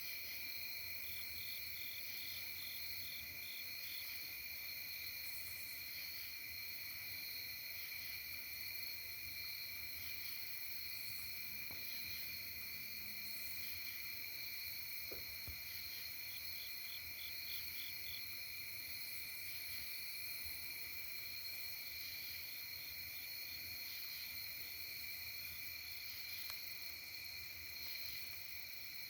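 Night insects calling in a steady, shrill chorus at two high pitches. A few times another insect joins in with short runs of rapid, evenly pulsed chirps.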